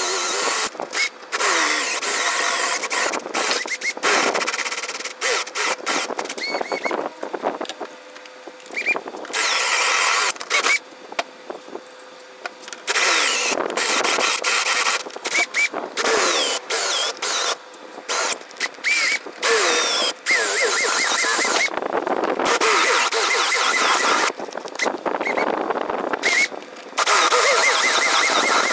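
Machine noise in many short bursts that start and stop abruptly, with brief high squeals that rise and fall in pitch.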